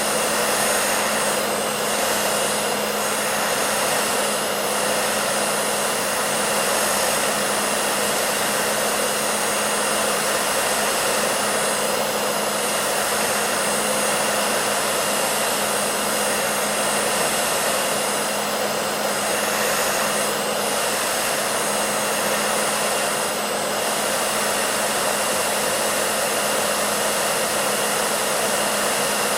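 Hair dryer running steadily: an even rushing hiss of blown air over a constant motor hum.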